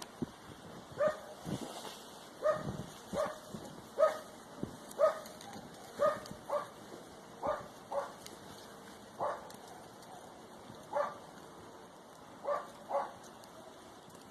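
A dog barking repeatedly, about fourteen short barks, some in quick pairs, with gaps of up to two seconds between them.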